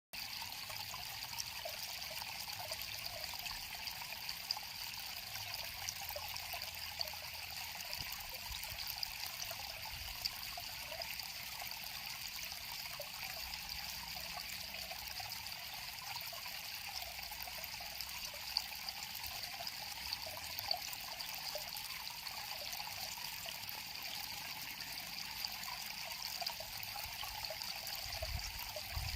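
River water flowing steadily: an even rush of moving water with small splashes scattered through it.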